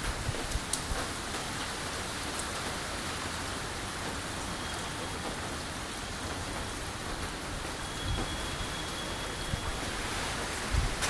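Steady rain from an approaching typhoon, an even hiss with a few faint drop ticks.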